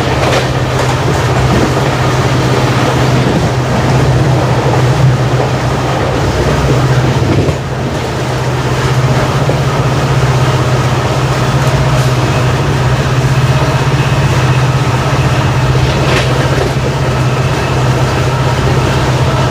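Moving passenger train hauled by a WDP4D diesel locomotive: the steady low hum of its EMD two-stroke diesel engine under the rolling noise of the coaches, dipping briefly about seven seconds in.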